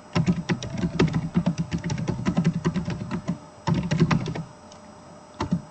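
Typing on a computer keyboard: a fast run of keystrokes lasting about three seconds, a shorter burst of typing about a second long, then a couple of single keystrokes near the end.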